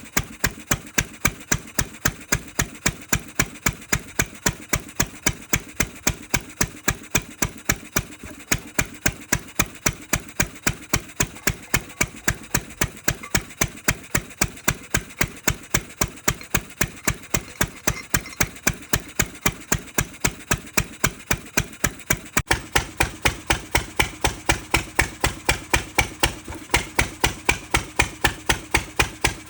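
Ruston 6PS single-cylinder stationary engine running steadily, each firing stroke a sharp beat at about three a second; about three-quarters of the way through the sound gets a little louder.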